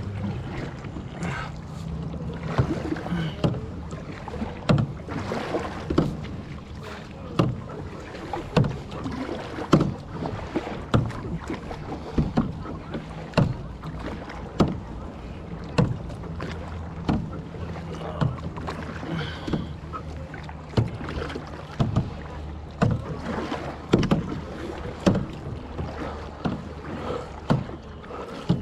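Kayak paddle strokes: the blades dip and splash into the water in a steady rhythm of about one stroke a second, over a steady low hum.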